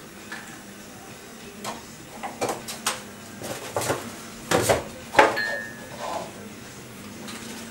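A run of irregular clicks and knocks in a small room, loudest about four and a half and five seconds in, with a brief steady high tone just after the loudest knock.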